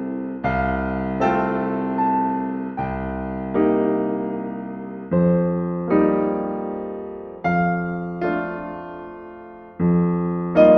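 Slow, gentle solo piano music: chords struck about every one to two seconds, each left to ring and fade before the next.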